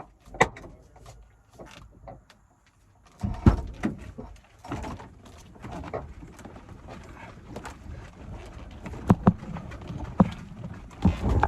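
Irregular knocks, thumps and scuffing as a pickup truck is pushed by hand. The loudest knocks come about half a second in, around three and a half seconds in, and near the end.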